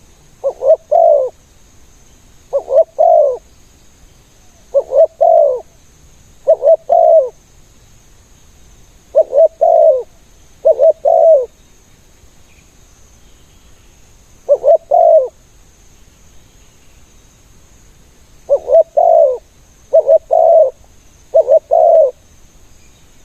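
Spotted dove cooing: about ten short, loud phrases of three or four quick notes each, repeated at uneven gaps of one to four seconds.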